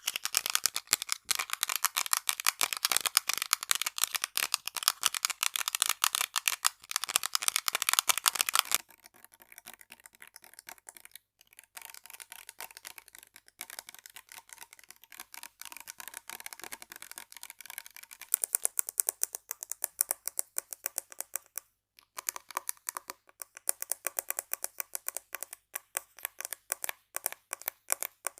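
Rapid ASMR tapping on assorted objects, a fast run of crisp clicks many times a second. The tapping drops to a much softer sound about a third of the way in, then turns loud and bright again about two-thirds of the way through, as the object being tapped changes.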